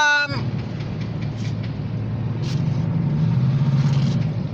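Steady low engine rumble that swells a little about three seconds in.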